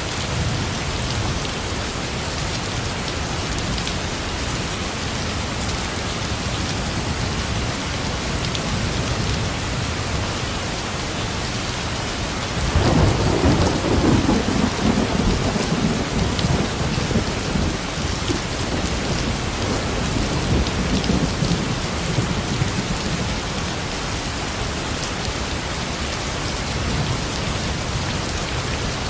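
Steady rain falling, with a roll of thunder rumbling in about halfway through and dying away over several seconds.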